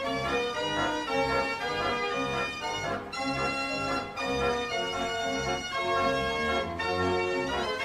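Background music on an organ-like keyboard: held chords that change every second or so over a pulsing bass line.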